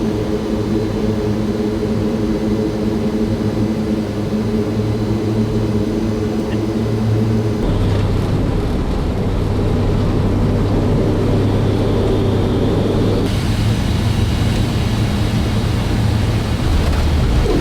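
C-130J Super Hercules turboprop engines and propellers running with a steady, loud drone and a strong low hum. The sound changes abruptly about halfway through and again near the end.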